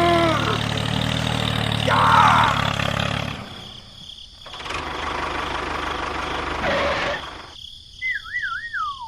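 An engine runs with a steady low hum for about three seconds, followed by a rougher, noisier stretch. Near the end a wavering whistle glides down and back up.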